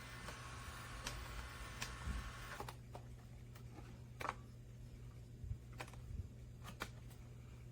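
Faint scattered clicks, about six of them spaced irregularly, over a steady low hum: small handling noises while the car is turned over and shown.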